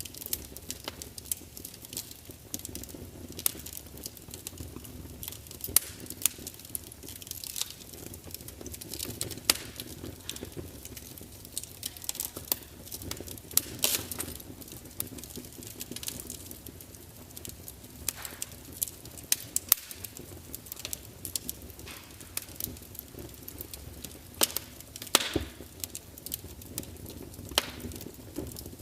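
Wood fire in a large fireplace burning steadily with a low rumble and hiss, logs crackling and spitting in irregular sharp pops, a few of them louder.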